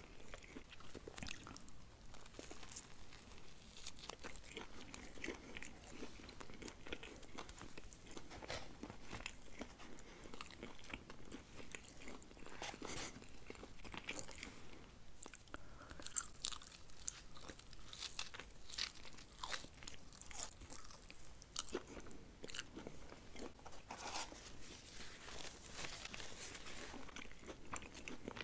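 A person chewing and biting into fast-food sandwiches close to the microphone: irregular crunches and wet mouth clicks, with no talking.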